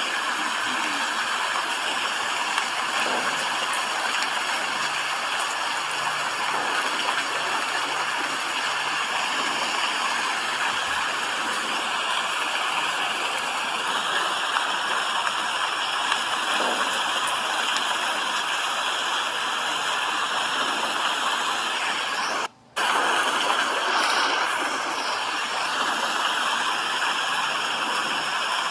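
Steady rain, an even hiss without a beat. About three-quarters of the way through it cuts out for a split second and comes straight back.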